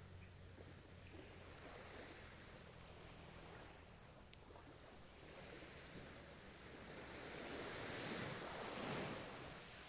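Ocean waves washing onto the shore, soft and steady, with one wave swelling to its loudest about nine seconds in and then easing off.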